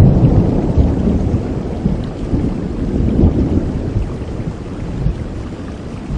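Thunder rumbling over steady rain; the low rumble is loud at first and fades away over the last few seconds, leaving the rain.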